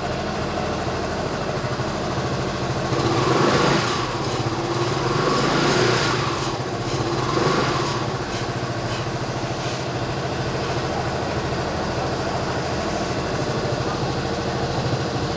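Honda SH300i scooter's single-cylinder four-stroke engine idling steadily just after a start, with the revs rising briefly three times between about three and eight seconds in before settling back to idle.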